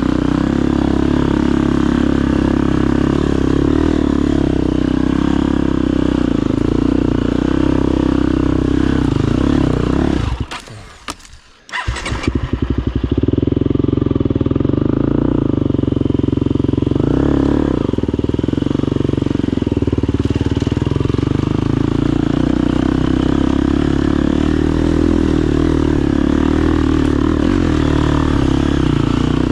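Husqvarna FE250's single-cylinder four-stroke engine running under riding load. About ten seconds in it cuts out, then fires up again a second or so later and keeps running.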